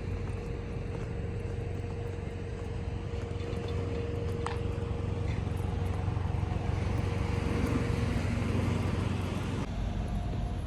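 Steady low rumble of a road vehicle or traffic, with a faint steady hum over it.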